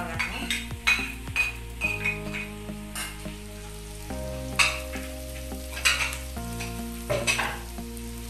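Onions and chillies sizzling in oil in a metal wok while a metal spoon stirs them, scraping against the pan in several sharp, irregular strokes.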